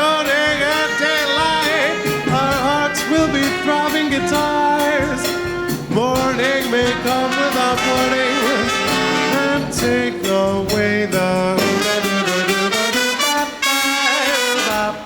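A big band's brass section of trumpets and trombones playing a swing passage, with notes scooping up into pitch, over a steady rhythm section.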